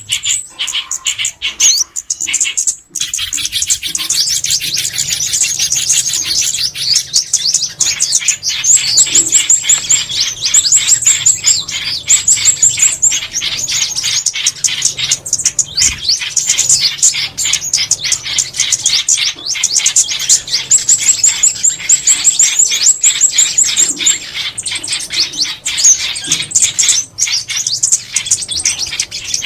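Songbird calls: a dense, unbroken stream of high, rapid chirps and trills, a recorded lure call for trapping small birds.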